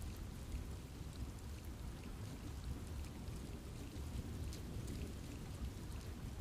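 Steady rain falling on forest trees, with scattered individual drops ticking over a low, continuous rumble.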